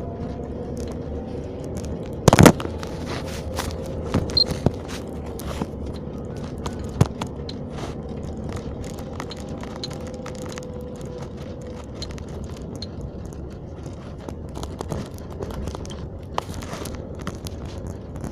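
Car interior noise while driving: a steady engine and road sound with scattered clicks and knocks, the loudest knock about two and a half seconds in.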